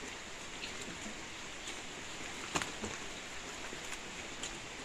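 Steady rain falling, with scattered light ticks of drops and one sharper knock about two and a half seconds in.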